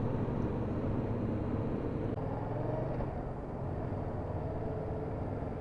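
Motorcycle running along the road: a steady engine hum with road noise.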